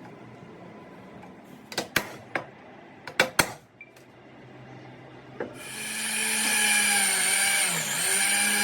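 A few sharp knocks and clacks of tools or metal being handled in the first half. About halfway through, an electric power tool starts and runs with a steady high whine, its pitch dipping briefly near the end.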